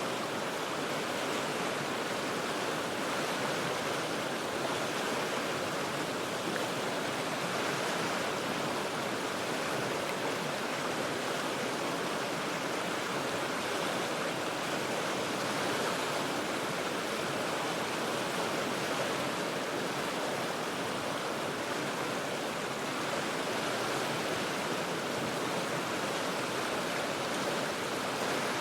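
The Cheat River rushing over rocks: a steady, even rush of flowing water with no breaks or single events, heard from about forty feet above the river.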